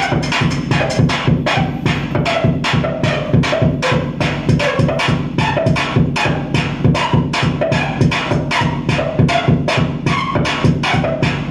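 Loud live electronic noise music: a dense, fast pulsing beat of about four to five hits a second over a steady low drone.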